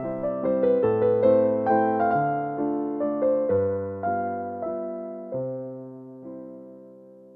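Slow, gentle piano music: a melody over soft chords, with the last chord struck near the end and left to die away.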